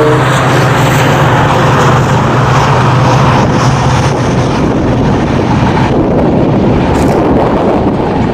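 Long passenger train's coaches rolling past on the track, a steady loud rumble mixed with wind noise on the microphone. A lower hum underneath fades out about halfway through.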